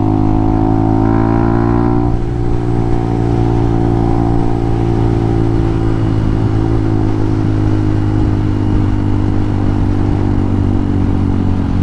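Hawk 250 dual-sport motorcycle's single-cylinder four-stroke engine running under way, its pitch rising slightly over about the first two seconds and then holding steady.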